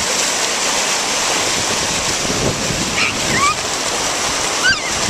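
Ocean surf washing in and out, with strong wind buffeting the microphone. A few short high-pitched cries about three seconds in and again near the end.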